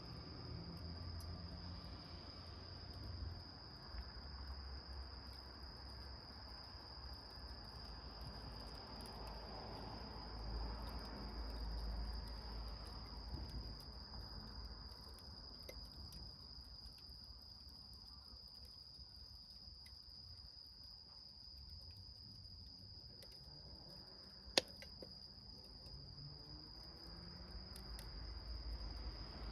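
A cricket trilling steadily at a high pitch, over a small fire in a can crackling faintly with soft ticks and a low rumble. One sharp pop about 24 seconds in.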